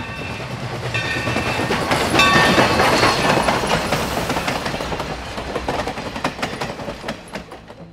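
Steam-hauled passenger train passing close by, its wheels clattering over the rail joints, with a few brief high ringing tones in the first seconds. The sound fades toward the end.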